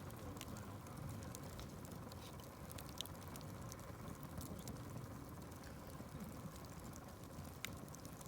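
Wood fire burning with a low rumble and frequent sharp crackles and pops, a louder pop about three seconds in and another near the end.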